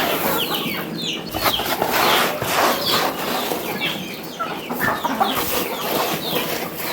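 A flock of domestic chickens clucking and calling, with many short, high chirps scattered throughout.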